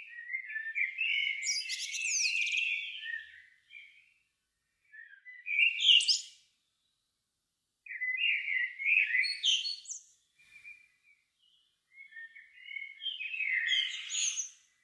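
A songbird singing four separate phrases with short pauses between them. Each phrase lasts a couple of seconds and starts as a lower warble, then ends in a high, squeaky twitter.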